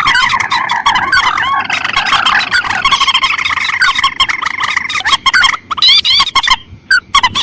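Lure recording of rice-field rails, mandar and tikusan, calling: a dense chorus of rapid, overlapping chirping calls that thins out with short gaps near the end.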